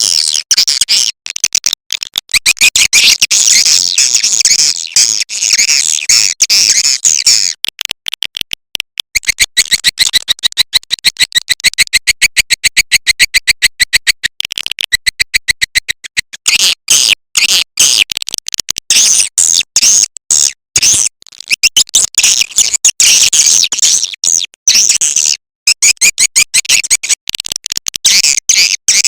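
Recorded swiftlet call sound: dense, high-pitched chirping and twittering of swiftlets, with a stretch of rapid, evenly spaced chirps in the middle. It is the lure call played to draw swiftlets into a nesting house.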